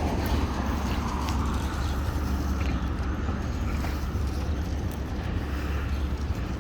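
Heavy diesel engine idling: a steady low rumble that holds level, with a faint haze of street noise over it.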